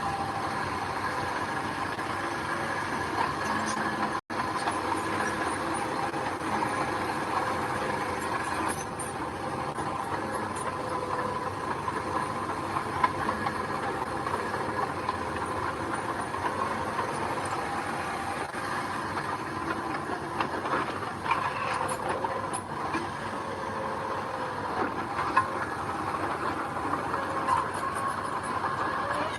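Heavy diesel earthmoving machinery running steadily, a constant engine drone with scattered clanks, with a brief break about four seconds in.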